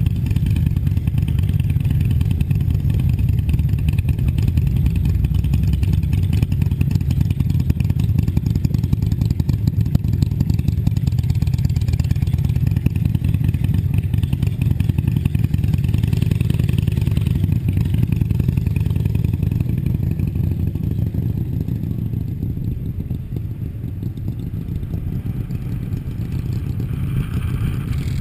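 Harley-Davidson V-twin motorcycle engine running at low speed through town, a steady low rumble that eases off briefly about three-quarters of the way through.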